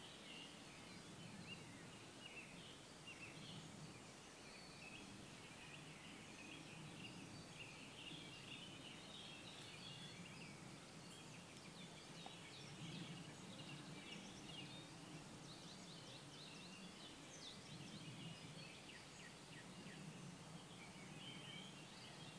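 Faint birdsong: several birds giving many short chirps and trills, over a low background rumble.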